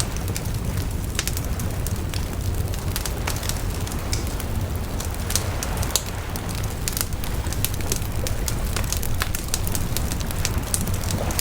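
Wood campfire crackling, with frequent sharp irregular pops, over a steady low rush of waves on the shore.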